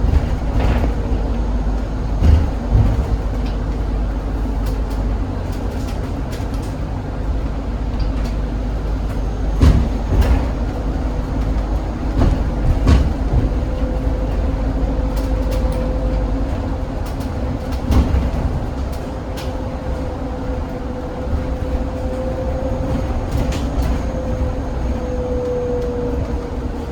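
Zhongtong range-extended hybrid city bus running, heard from inside: steady low drive rumble with a faint whine whose pitch drops slightly near the end, and several sharp knocks and rattles from the body over the road.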